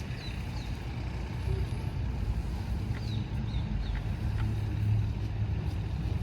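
Stationary diesel engine running steadily, a low, even thrum.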